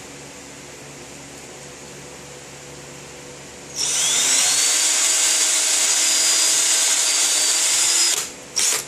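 Power drill boring a pilot hole into wood: it spins up with a rising whine about four seconds in, runs steadily for about four seconds, stops, then gives a short second burst just before the end.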